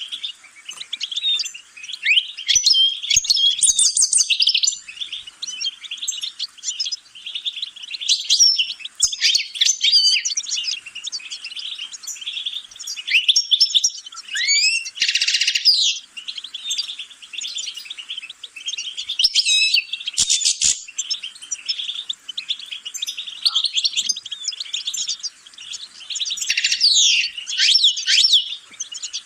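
European goldfinch singing: a long run of rapid twittering chirps and trills in short phrases, with a harsh buzzy note about halfway through.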